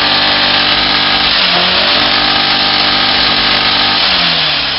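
Vehicle engine held at high revs through a loud exhaust, steady, with a brief dip about a second and a half in, then dropping back as the throttle is released near the end: a rev held for an exhaust sound-level measurement.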